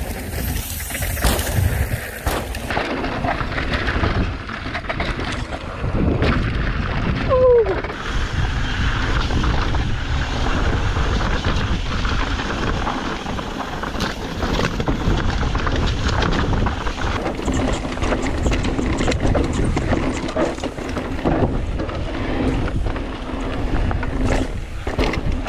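Mountain bike descending rough, rocky dirt singletrack: wind rushing over the camera microphone and tyres rolling, with frequent rattles and knocks from the bike over rocks. A brief falling squeal about seven seconds in.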